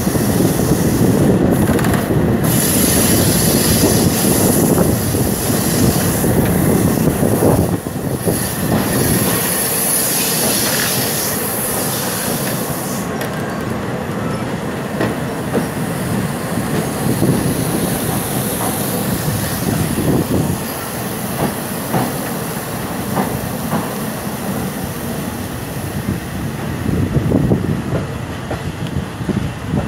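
Thai ordinary passenger train running on the rails: a steady rumble and rattle of wheels on track, with a high hiss that stops about a dozen seconds in, after which the running is quieter.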